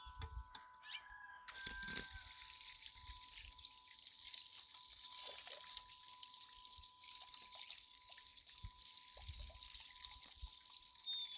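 Water trickling, starting suddenly about a second and a half in and running steadily.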